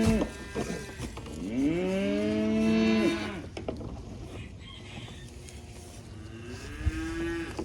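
Cattle mooing: the tail of one moo at the start, a long, loud moo about a second in, and a fainter moo near the end.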